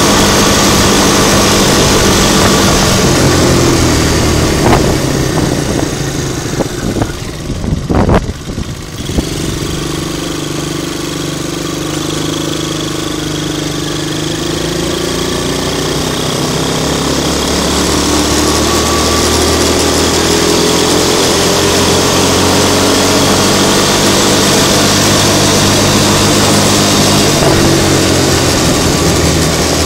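Hammer HT125 quad bike's 125 cc engine running under way: the engine note drops back for a few seconds with a few sharp knocks, then pulls up again and rises steadily in pitch as the quad accelerates.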